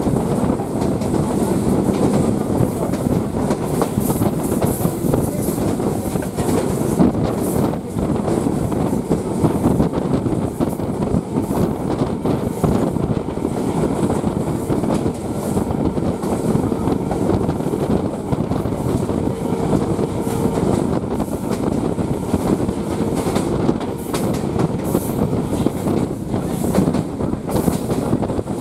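Electric suburban local train running at speed, heard from its open door: a steady rumble of the coach with the wheels clattering over the rails.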